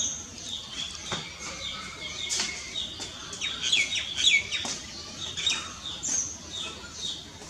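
Common myna calling: a string of short, falling chirps about twice a second, with a louder run of varied, quickly changing notes in the middle.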